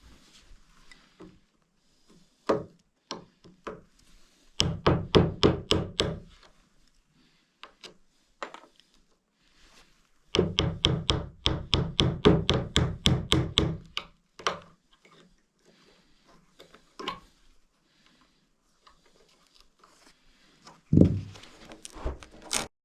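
Hammering: two quick runs of even blows, about five a second, one short and one lasting several seconds, with scattered single knocks between and a heavier thud near the end.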